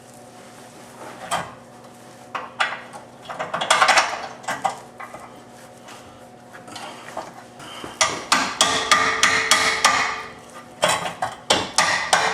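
Hammer knocking a control arm pin through its mount on a car's rear crossmember: a few scattered blows at first, then quick runs of metal strikes, several a second, from about two thirds of the way in.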